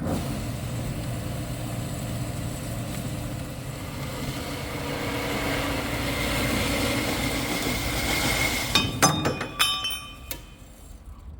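Metal-cutting saw running steadily through steel section. About nine seconds in it gives way to a quick cluster of sharp metallic clinks and clanks with ringing, as steel pieces knock together.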